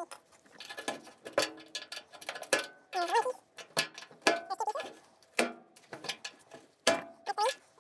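Hand tools working on rusted bolts in a truck's front end: irregular metal clinks and knocks, with a few short squeaks.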